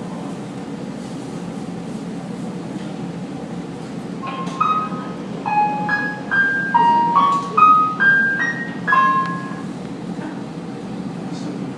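Steady running rumble inside a moving train carriage; about four seconds in, a short electronic chime melody of about a dozen notes plays over the train's PA system, the jingle that comes before an onboard announcement.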